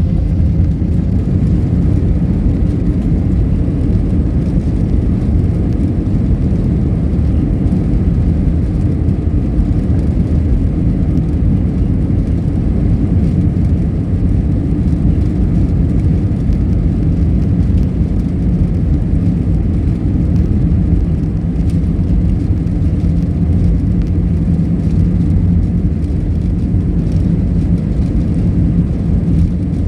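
Jet airliner engines at takeoff power, heard inside the passenger cabin as a steady, loud, deep rumble and roar.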